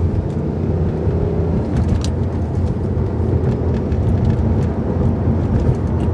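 Volvo C30 with an aftermarket Dynomax muffler and exhaust tips accelerating hard in second gear, heard from inside the cabin: a steady low engine and exhaust drone, pretty quiet.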